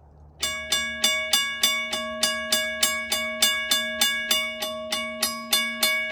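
Railroad crossing bell starting up about half a second in and striking at a steady beat of about three strokes a second, each stroke ringing on into the next.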